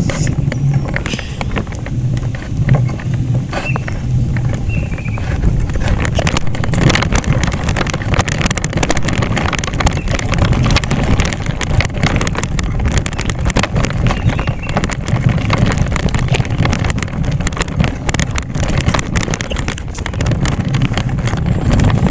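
Steady rumble and rattling of riding along on a bicycle, with many small clicks and knocks throughout.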